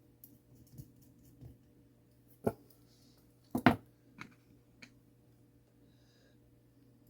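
A few small, sharp metal clicks and taps from nuts, parts and tools being handled while a mantel clock movement is put together. The loudest is a double click a little past the middle, over a faint steady hum.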